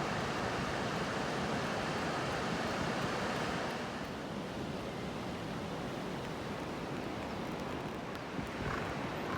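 Steady rain falling, a constant hiss that eases slightly about four seconds in.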